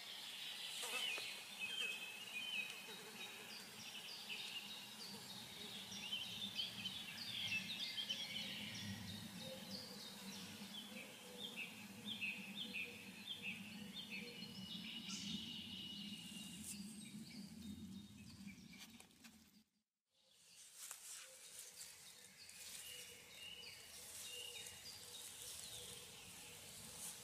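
Several small birds singing and calling: runs of short, quick high notes, some in falling steps, over a steady low background noise. The sound drops out abruptly for about half a second some twenty seconds in.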